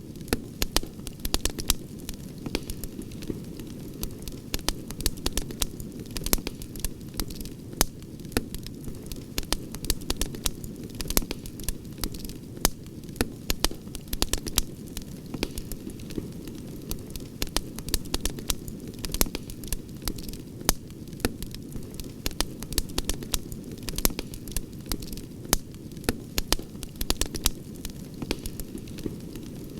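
Campfire crackling, with many sharp irregular pops over a steady low rumble of burning.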